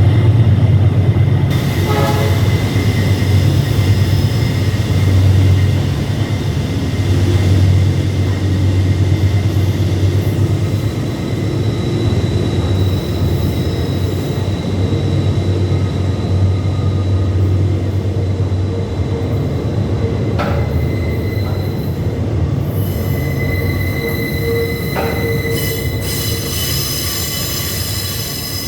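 Container freight train rolling by: the diesel locomotives' deep, steady rumble under the clatter of the cars, with wheels squealing on the rails. A higher, shriller wheel squeal builds over the last few seconds.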